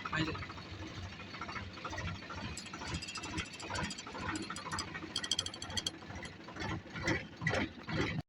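Irregular mechanical clicking and clattering of metal parts, with no steady running-engine rhythm; it cuts off abruptly at the end.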